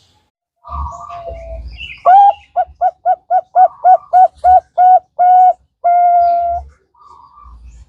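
Zebra dove (perkutut) singing: a softer opening coo, then a quick run of about a dozen short staccato coos, ending in one longer drawn-out coo.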